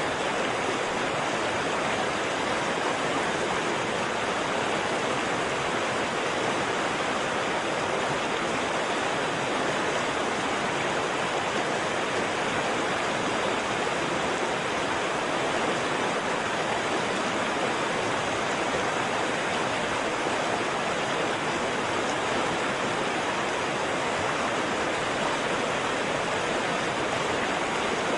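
Waterfall: falling water rushing with a steady, unbroken hiss.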